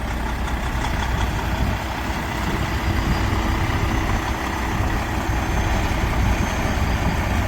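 Mack MP8 diesel engine of a 2020 Mack Anthem day cab idling steadily.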